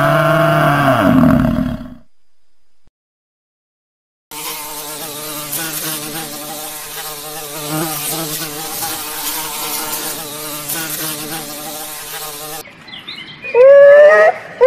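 A bison grunting low for the first two seconds, then a short silence, then a honeybee buzzing steadily for about eight seconds. Near the end come loud, high squealing calls that rise and fall in pitch, from a sea otter.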